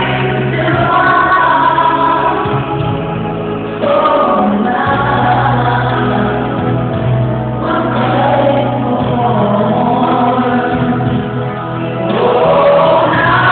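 Choir singing Christmas gospel music over a steady held bass note.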